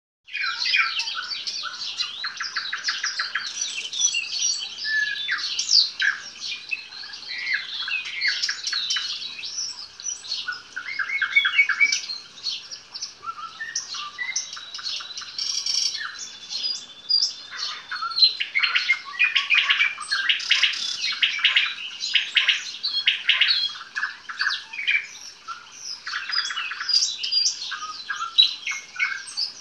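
Nightingale singing continuously, phrase after phrase. The song mixes fast trills of evenly repeated notes, sharp clicks and clear whistles.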